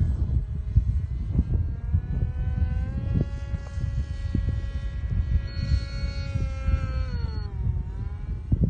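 RC aircraft's motor and propeller buzzing in flight at a steady pitch, which rises a little about three seconds in and then falls away near the end, over a low rumble.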